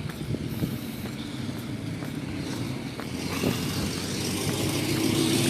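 A motor vehicle approaching along the street, its engine rumble and road noise growing louder from about three seconds in.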